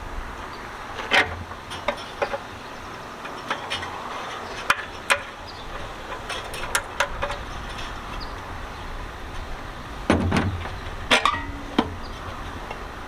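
Scattered metal clinks and knocks of hand tools and parts while the gas tank is being removed from a pressure washer's small Honda engine, with a louder clatter and thump about ten seconds in.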